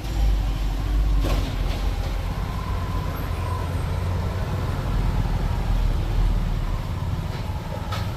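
Steady low rumble of an idling truck engine, with a short knock about a second in and another near the end.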